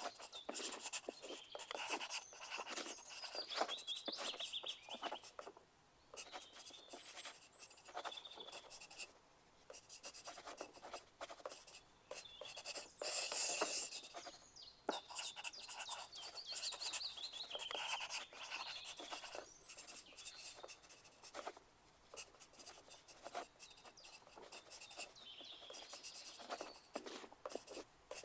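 Pencil writing on paper: irregular scratching strokes and short dashes, broken by brief pauses.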